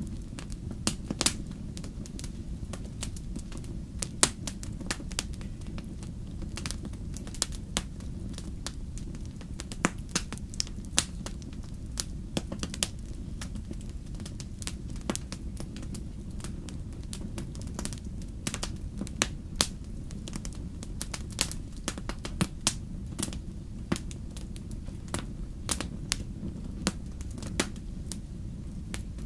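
Campfire crackling and popping: frequent sharp, irregular pops over a steady low rumble of the burning fire.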